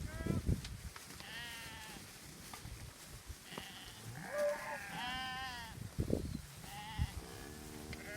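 Sheep bleating: several separate quavering bleats from the flock, one after another, with a lower, longer bleat near the end.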